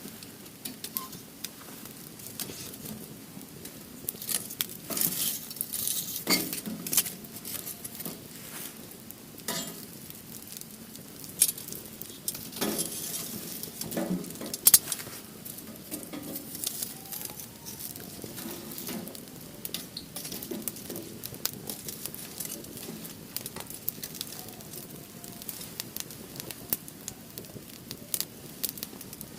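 Wood fire crackling and popping in a steel fire-pit grill, with irregular sharp snaps over a soft hiss and denser, louder bursts of snaps and knocks a few seconds in and again around the middle.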